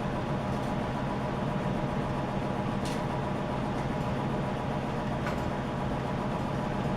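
Steady low hum and running noise, with a few faint light clicks about three and five seconds in.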